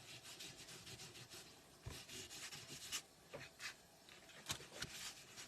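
Rapid rubbing strokes of an embossing buddy over cardstock, taking the stickiness off exposed adhesive, then a few light taps as the paper is handled.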